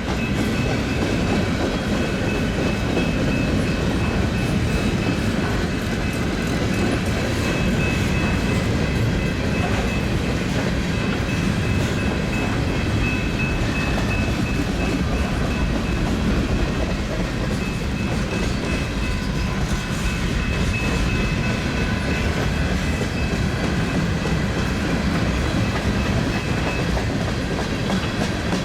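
Long mixed freight train rolling past, its cars running steadily over the rails with no let-up.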